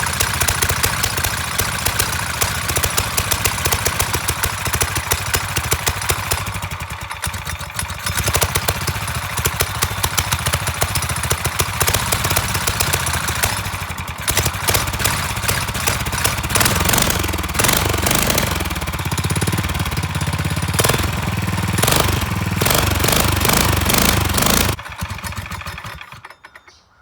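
Predator 301cc single-cylinder engine on a dirt bike running unevenly with its revs varying, then dying about 25 seconds in. The owner takes it to be running rich.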